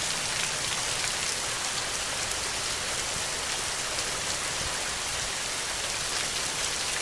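Steady rain falling: an even hiss with a faint patter of individual drops.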